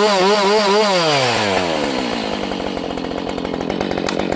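Husqvarna 572XP single-cylinder two-stroke chainsaw revved high with the throttle pulsing up and down a few times a second, then easing off so the revs fall away to a steady idle about a second in. It is being run to check that the bar oiler throws oil onto the chain.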